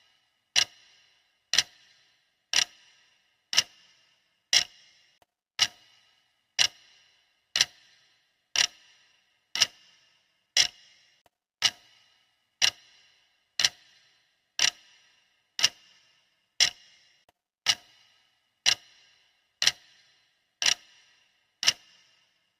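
Countdown timer's clock-style ticking: one sharp tick every second, steady and even, each tick with a brief high ring.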